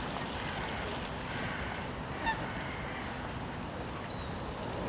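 A single short honking bird call, likely waterfowl, about two seconds in, over a steady background hiss. A few faint high chirps come near the end.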